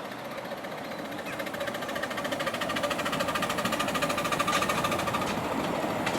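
Miniature railway locomotive running, a fast even beat of about ten strokes a second growing louder as it approaches.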